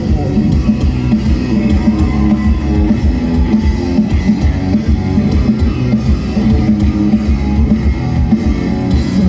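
Rock band playing an instrumental passage: guitars over bass and drums, with no singing.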